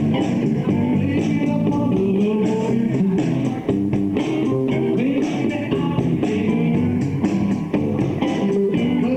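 Live rock band playing: strummed guitars over bass and a drum kit, in a steady beat.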